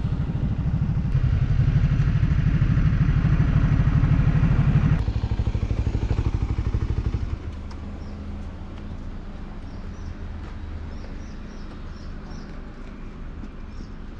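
Motorcycle engine running hard with a rapid pulsing beat, easing off about five seconds in, then dropping to a quieter idle about seven seconds in. Small birds chirp over the idle in the second half.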